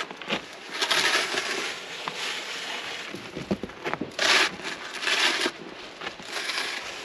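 Boots crunching through deep snow in a few separate bursts of steps, with a few light knocks in between.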